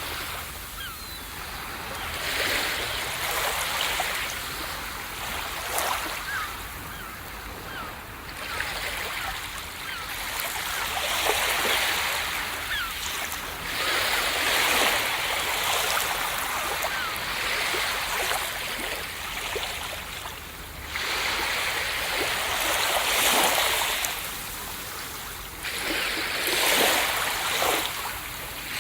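Ocean waves breaking and washing up a beach. The hissing surf swells and falls back every few seconds.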